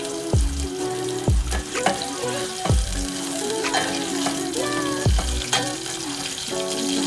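Food sizzling as it fries in a pan, over background music with a deep bass beat.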